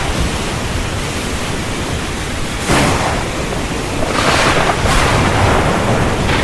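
Heavy rain pouring steadily over a low rumble, surging louder a couple of times.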